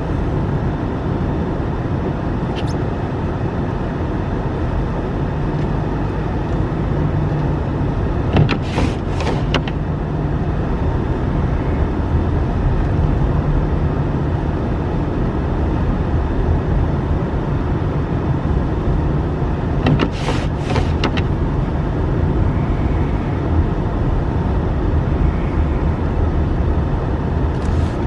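Car driving slowly on snowy roads, heard from inside the cabin: a steady low engine-and-tyre rumble with road hiss. Short clusters of clicks or knocks come about nine seconds in, again about twenty seconds in, and once more near the end.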